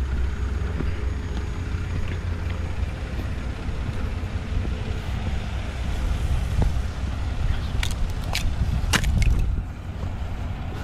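Heavy vehicle engine running steadily with a low rumble, with a few sharp clicks or knocks about eight to nine seconds in.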